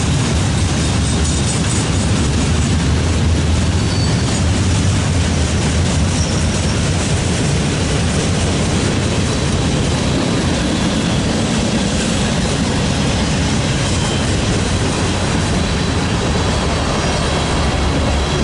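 Freight train cars rolling past: a loud, steady noise of steel wheels running on the rails.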